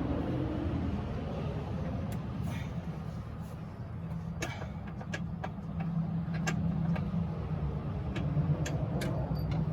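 Metal hand tools clinking sharply about ten times, sockets being handled and swapped while hunting for the right size, over a steady low rumble.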